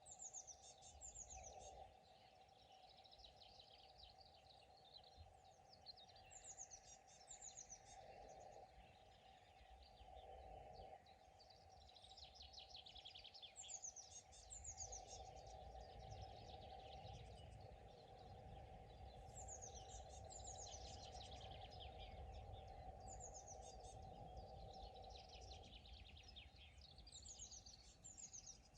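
Faint outdoor pond ambience: a songbird sings short high phrases, each a quick run of notes falling in pitch, about every six seconds, over a steady low hum and a soft rumble.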